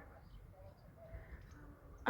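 Near silence: faint background room tone with a low rumble and a few scattered faint chirp-like tones.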